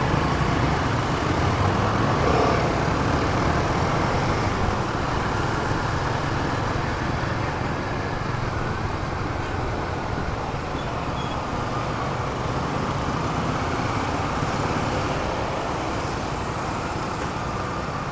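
Royal Enfield Himalayan 450 single-cylinder motorcycle running steadily through city traffic, its engine under wind and road noise, with other traffic around.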